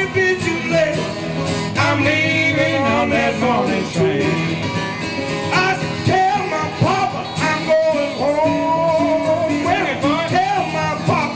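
Live country-blues music: plucked guitars playing with a sung vocal melody.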